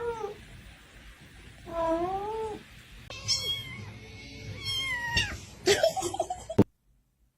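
A cat meowing about four times, drawn-out calls that rise and fall in pitch, before the sound cuts off suddenly near the end.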